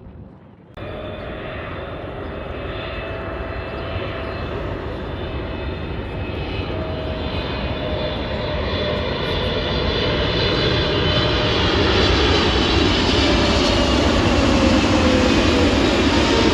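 Jet airliner's engines, starting suddenly about a second in and growing steadily louder as the plane comes closer. Several whining tones in the engine noise slowly fall in pitch.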